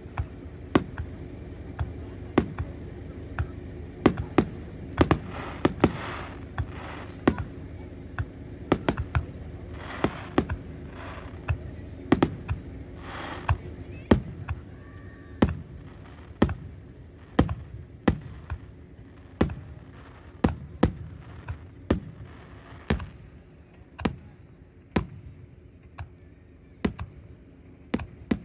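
Aerial firework shells bursting in quick succession, sharp bangs about once or twice a second, each with a short echoing tail.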